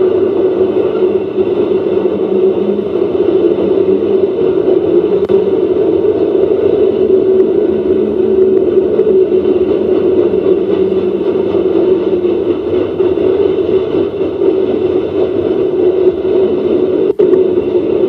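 Norfolk Southern coal train's freight cars rolling past, a steady noise of steel wheels on rail heard through a webcam's microphone, with a brief dropout near the end.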